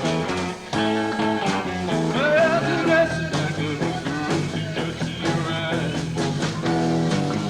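Live rock band playing a song with electric guitar, bass and drums, with regular drum hits and a wavering, rising lead line about two seconds in.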